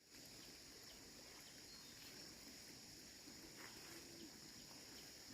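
Near silence: faint outdoor background with a steady, high-pitched drone of insects and a few faint ticks.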